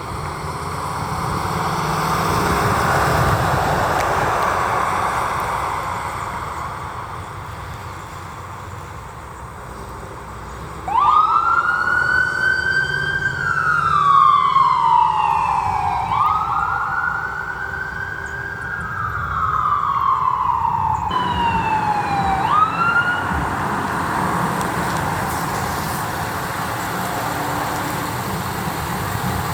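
Road noise swells and fades as a vehicle passes. About eleven seconds in, an emergency vehicle siren starts wailing: two long sweeps, each rising quickly and falling slowly over about five seconds. Then comes a shorter sweep that cuts off abruptly, leaving steady vehicle noise.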